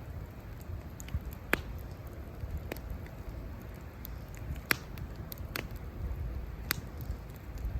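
Campfire crackling: sharp, irregular pops from the burning wood, the loudest about a second and a half in and again a little past halfway, over a low steady rumble.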